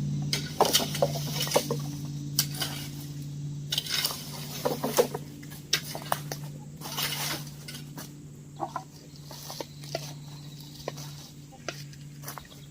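Irregular scraping and clattering of sticks, gravel and road trash being cleared from a drainage gully, with chickens clucking and a steady low hum underneath that fades near the end.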